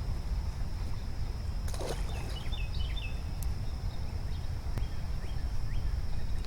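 Outdoor creek-side ambience: a steady low rumble under a constant high-pitched tone, with a brief rustling burst about two seconds in. A bird gives a quick series of short chirps right after it, and a couple more single chirps near the end.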